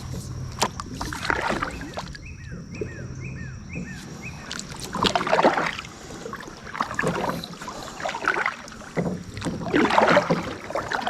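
Kayak paddle strokes in lake water: irregular splashing swishes every second or two. About two seconds in, a bird gives a quick run of short falling chirps.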